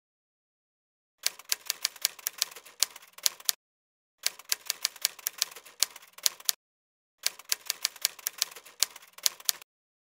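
Typing: rapid sharp key clicks, about five a second, in three runs of roughly two and a half seconds each with short pauses between.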